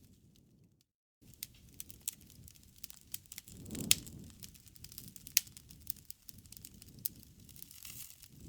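Campfire crackling: a low rumble of burning wood with scattered sharp pops, the loudest a few seconds in. The sound cuts out completely for a moment about a second in.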